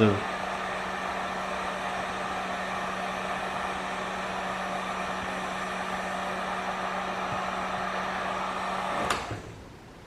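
Electric heat gun blowing steadily with a constant motor hum while it warms a vinyl decal to activate the adhesive, then switched off with a click about nine seconds in and the blower stops.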